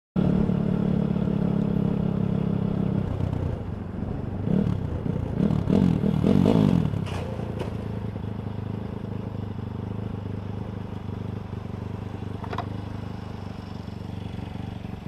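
Vehicle engine and road noise picked up by a dashcam, with a louder stretch of clatter and scraping about four to seven seconds in.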